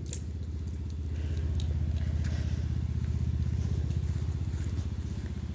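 Tractor engine running steadily with a rapid low pulse, growing a little louder about a second in and easing off near the end.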